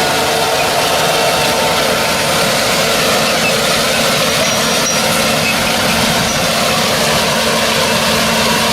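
Tractor engine running steadily with a loud, even drone.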